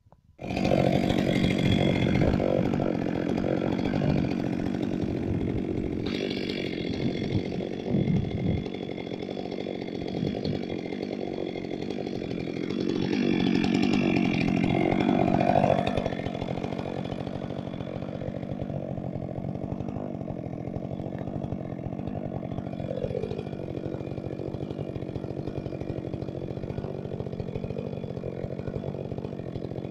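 Chainsaw engine running, cutting in abruptly about half a second in. It is loudest at first and again around thirteen to sixteen seconds in, then runs steadily and somewhat quieter.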